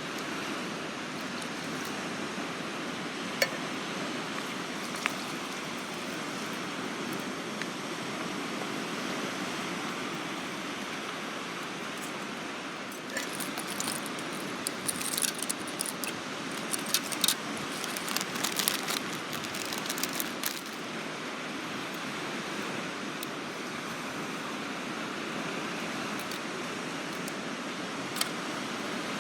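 Metal pieces clinking and rattling against each other for several seconds midway, with single clicks earlier on, over a steady rush of waves.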